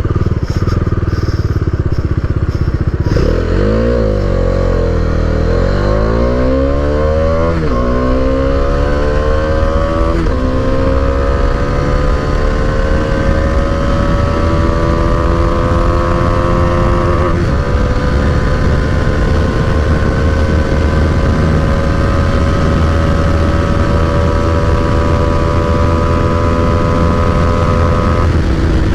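Bajaj Dominar 250's single-cylinder engine under hard acceleration. Its note climbs through the gears and dips briefly at each upshift, several times, and each later gear climbs more slowly as the bike nears top speed.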